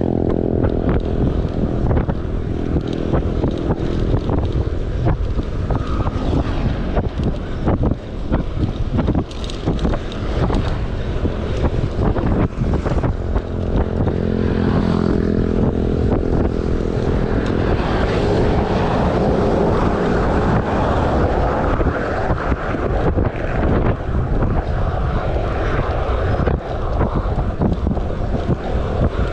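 Wind buffeting the microphone of a camera riding along on a moving bicycle: a loud, rough rumble that never lets up, with constant gusty flutter.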